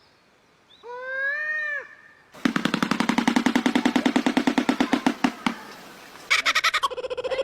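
Bird calls: a single arched call that rises and falls, then a different bird's fast, machine-like rattle lasting about three seconds, then another pulsed call beginning near the end.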